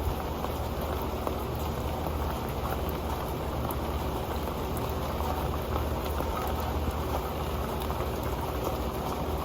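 Rain falling steadily onto an old metal pan, a dense even patter of many small drop ticks with no let-up.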